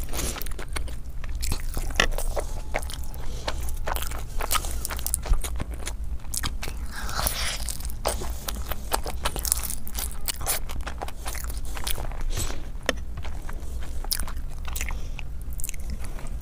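Close-miked eating: wet chewing and mouth clicks from a handful of mutton biryani and chicken curry eaten by hand, with the sticky squelch of fingers working through the rice and gravy.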